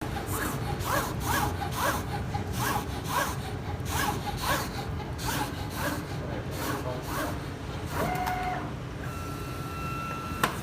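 SCA3+II Pro automatic decal cutting plotter's motors driving the cutting head in quick back-and-forth strokes, about two a second, each a short whine that rises and falls in pitch. Near the end the motors settle into a steady higher whine, cut by a single sharp click.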